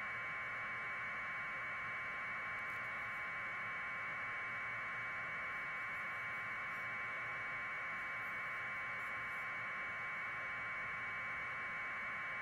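Steady hiss of static, pitched in a narrow middle band and unchanging in level, with no other sound over it.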